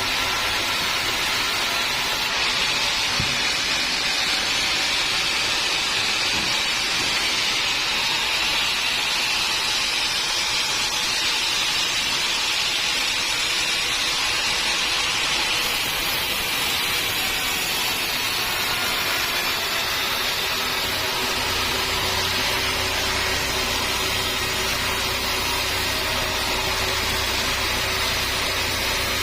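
Sawmill machinery running steadily with a continuous hiss of a saw working teak wood. A low motor hum joins in about three-quarters of the way through.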